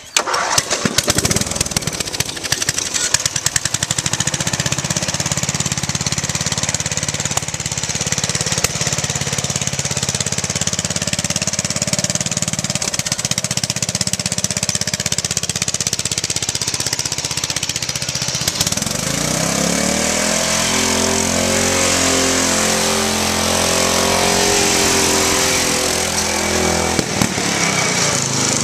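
Riding lawn mower engine running under load with a rapid, chattering exhaust. About two-thirds of the way through it revs up, its pitch climbing and holding higher, then eases back near the end.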